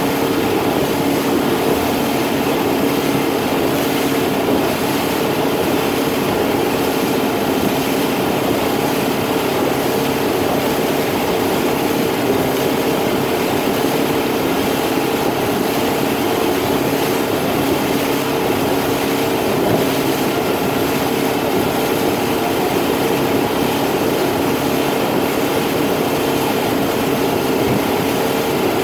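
Motorboat engine running steadily at cruising speed, an even drone that holds one pitch throughout, with wind and water rushing past the hull.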